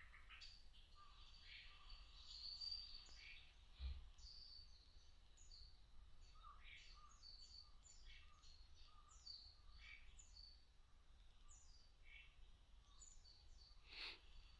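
Small birds chirping faintly: many short, quick, falling chirps repeated throughout. A single sharp tap sounds near the end.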